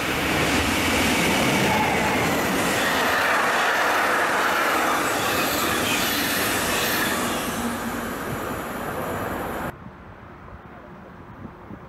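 An electric locomotive-hauled double-deck passenger train running along a station platform: a loud, steady rush of wheel and rail noise with a high whine sliding down in pitch. It cuts off suddenly near the end, leaving quiet outdoor background.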